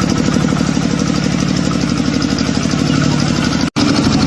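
An engine running steadily at a constant speed with an even pulsing beat, briefly cut off near the end.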